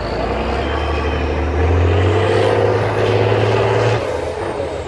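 Off-road trial truck's diesel engine working hard, its note rising about a second and a half in, holding, then dropping off near the end, with a faint high whistle rising and falling over it.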